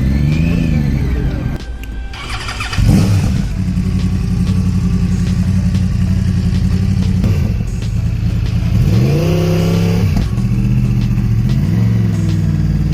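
Motorcycle engine idling steadily, blipped into short revs that rise and fall about a second in, around nine seconds and again near twelve seconds, with a loud sharp burst about three seconds in.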